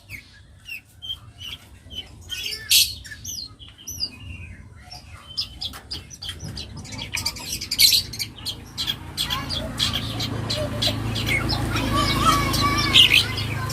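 Young long-tailed shrike (cendet) singing a rapid, varied song of short chirps, whistled glides and harsh clicking notes, full of mimicked calls of other birds. A low background rumble grows from about halfway through.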